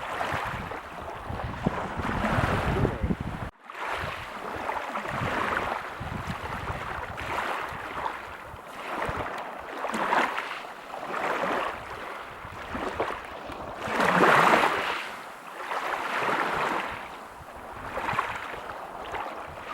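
Ocean waves breaking and washing on a beach in a repeating rush of surf that swells and fades every second or two, loudest about fourteen seconds in. The sound cuts out for a split second near four seconds in.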